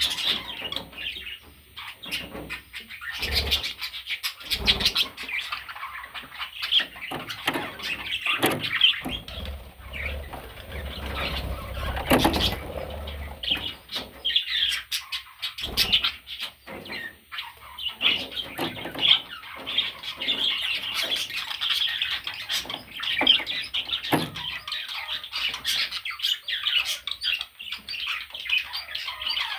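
Budgerigars chattering and warbling continuously, with short squawks and chirps, and occasional knocks and thumps.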